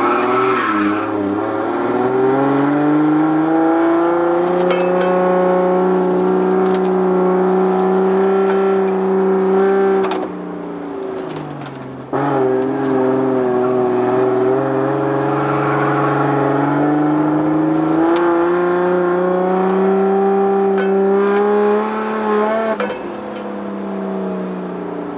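Toyota 2JZ straight-six engine in a Soarer pulling hard, heard from inside the car: the revs climb and hold, drop away about ten seconds in, come back on sharply about two seconds later, and fall off again near the end.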